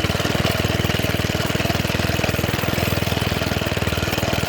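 Minibike's small engine running steadily at low throttle: a rapid, even pulsing.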